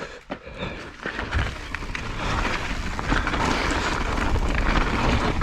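Wind rushing over a helmet camera's microphone, with the rumble of mountain bike tyres rolling over loose rocks on a steep descent. The noise swells about a second in and stays loud.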